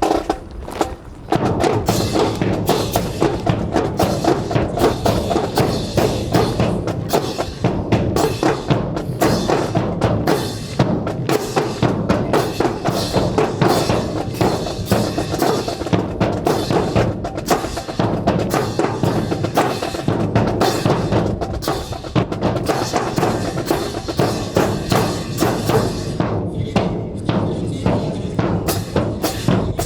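Marching drum corps playing a steady snare and bass drum cadence, with dense, even strokes that build up about a second in.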